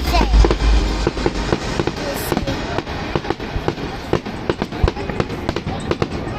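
Aerial fireworks crackling and popping in a dense, rapid run of sharp reports. Loud music with heavy bass plays over them and fades out about a second and a half in.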